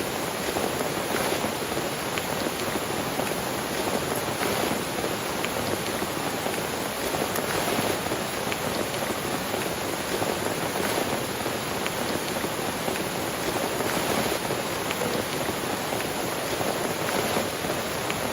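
Steady heavy rain falling, a continuous hiss of rain with scattered drops ticking on a surface.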